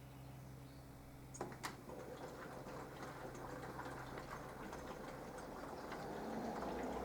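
Mini washing machine on a wash cycle: a low steady hum, two sharp clicks about a second and a half in, then water splashing and sloshing that grows louder.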